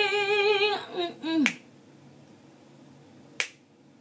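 A woman's unaccompanied singing voice holds the last note of a line with vibrato and breaks off about a second in with a short sung fragment. Then come two sharp clicks about two seconds apart over quiet room tone.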